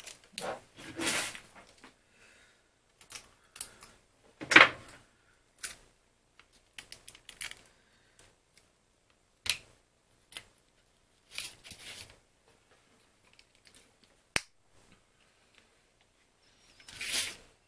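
Small parts being handled by hand on a workbench: irregular rustles, taps and clicks, with a sharp single click about fourteen seconds in.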